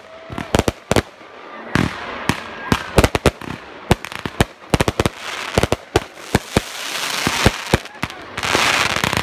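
Fireworks display: a fast, irregular run of sharp bangs from bursting shells, several a second, with a dense crackling hiss swelling near the end.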